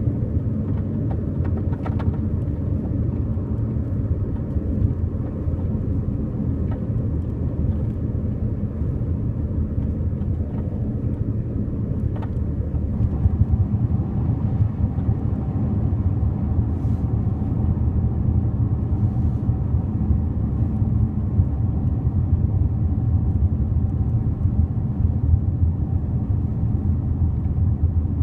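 Steady road and engine rumble inside a 2006 Honda Elysion minivan while driving, with a few faint clicks or knocks from the sliding door. The door noise keeps coming back after repairs, and Honda puts it down to wear and says it cannot be fixed.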